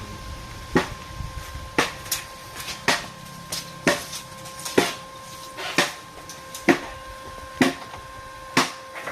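Hammer blows struck at an even, steady pace of about one per second, nine in all, over a steady hum.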